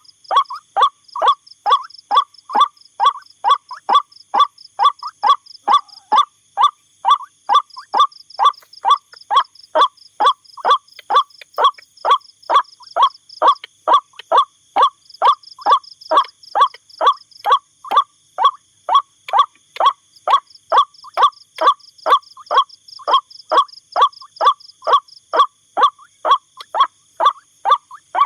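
White-breasted waterhen calling its monotonous, repeated "ruak" note, about two short falling calls a second, on and on without a break.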